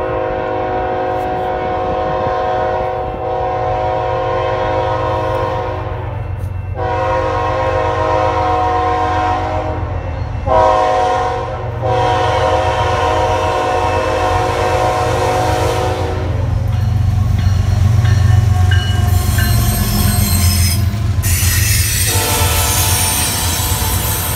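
A CN ET44AC diesel-electric locomotive sounds its multi-note air horn as it approaches: long blasts broken by one short one, the grade-crossing pattern. The horn stops about two-thirds of the way through. The locomotive's engine rumble then rises as it passes, followed by the rolling noise and squeal of the intermodal stack cars' wheels on the rails.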